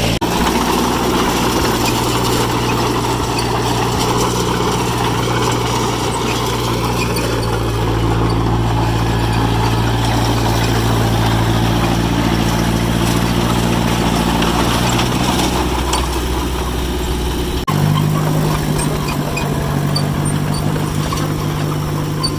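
John Deere 1010 crawler's four-cylinder engine running at a steady speed, with a level, even note that shifts abruptly to a different pitch about three-quarters of the way through.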